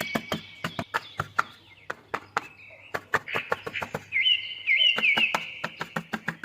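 Small birds chirping and tweeting, with a quick run of repeated sweeping notes a little past the middle, over many sharp clicks and knocks.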